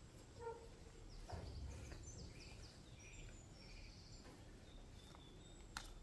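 Faint high chirps and twitters of small birds over quiet barn ambience, with one sharp click near the end.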